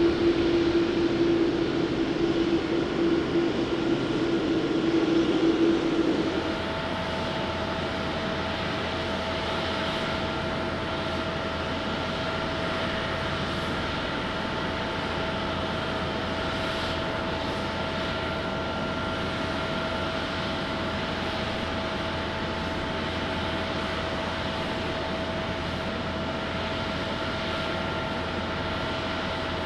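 Jet airliner engines running with a steady rush and whine. About six seconds in, the sound changes abruptly from a louder, lower-pitched hum to a quieter, steady whine with higher tones.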